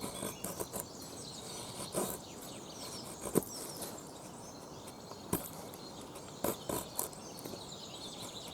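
A wavy-edged (serrated) pocketknife blade shaving a small stick of wood in short, separate scraping cuts, some in quick clusters. Birds and insects chirp in the background.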